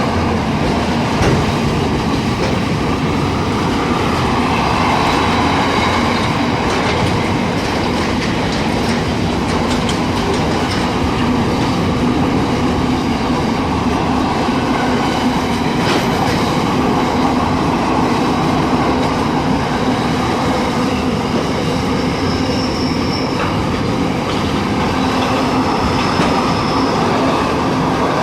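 Long interstate freight train's wagons rolling past: a steady loud rumble of wheels on rail with a low steady hum.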